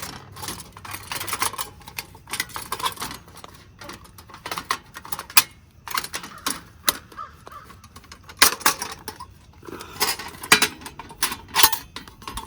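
Light metal clicks and clacks of a small folding camp stove being unfolded and fitted together, with crows cawing in the background.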